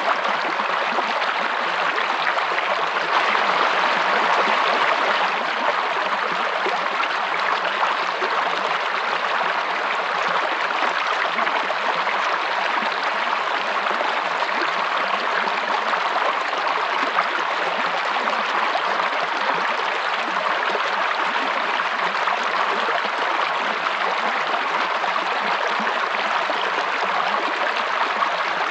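Water of a stream or small forest waterfall running and splashing over rocks, a steady rushing with no breaks.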